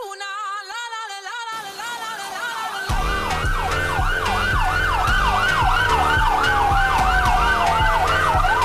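Fast, repeating wailing siren glides over a heavy bass beat that comes in about three seconds in.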